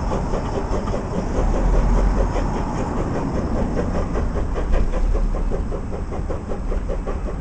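Heritage diesel train running, its engine beating rapidly over a deep rumble, swelling a little about two seconds in.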